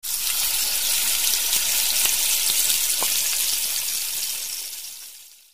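Sizzling of food frying in hot oil: a steady hiss with scattered crackles that fades out over the last second and a half.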